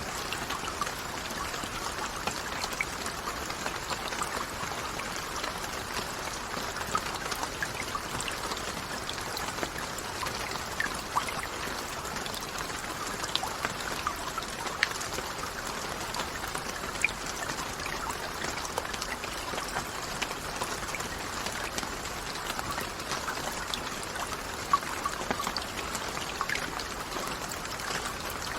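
Steady rain falling, a continuous hiss with many individual drops ticking out over it and a few louder single drops.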